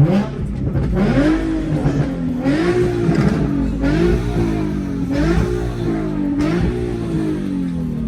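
Car engine revved in a series of blips, its pitch rising and falling about five times.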